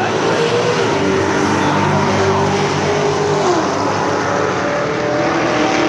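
Cars racing down a drag strip at full throttle, their engine note stepping down at gear changes about a second in and again about three and a half seconds in.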